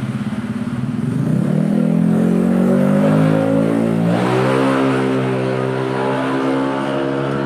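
Motorcycle engine revved: the revs rise about a second in, climb higher around four seconds, hold there, then drop back near the end.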